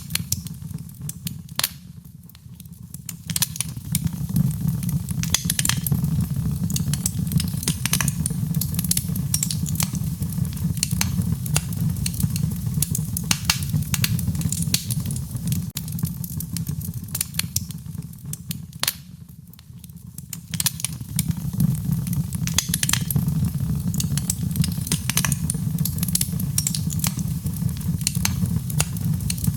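Wood fire burning, crackling and popping with many sharp snaps over a steady low rumble of the flames. It goes briefly quieter about two seconds in and again about nineteen seconds in.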